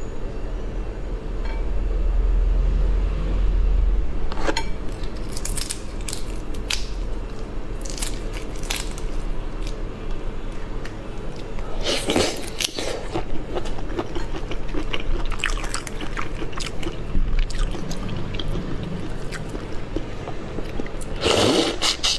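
Close-miked eating: a person biting and chewing food, with scattered crunches and small clicks, a low rumble about two to four seconds in, and louder crunching bursts about halfway and near the end.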